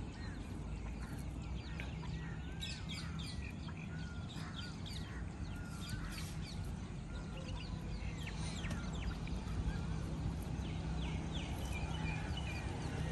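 Birds calling around the lake: many short chirps and wavering whistles come and go throughout, over a steady low rumble.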